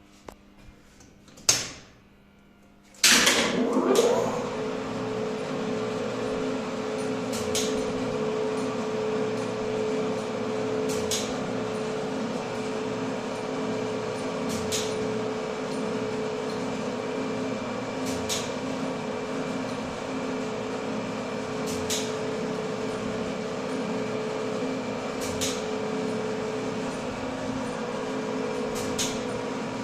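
A click, then about three seconds in a loud clack as the lift's LPL-160 winch starts and its AS-72 two-speed electric motor and worm gear run with a steady hum and whine. Sharp clicks come regularly, about every three and a half seconds, while the winch runs.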